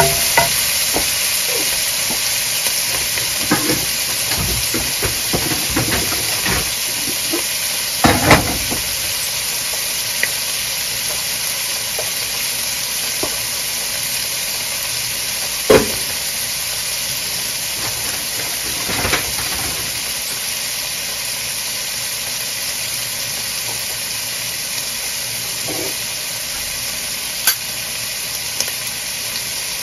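Diced meat and onion sizzling steadily in a nonstick wok. A wooden spoon scrapes and knocks against the pan repeatedly over the first several seconds, then only a few single knocks are heard while the frying hiss carries on.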